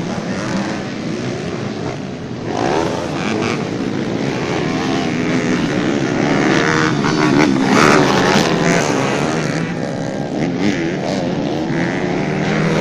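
Several motocross bikes racing, their engines revving up and down over one another. The sound gets louder after about two and a half seconds.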